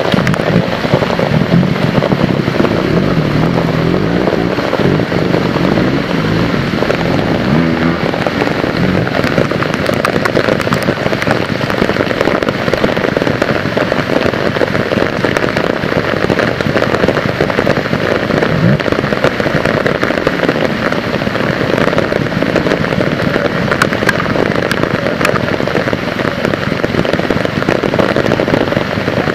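Heavy rain, a dense steady crackle of drops. Underneath, a trial motorcycle engine revs up and down in the first several seconds, with one more short rising rev about two-thirds of the way through.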